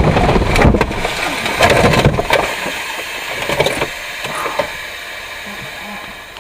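Vehicle noise with a few sharp knocks in the first two seconds, growing steadily quieter.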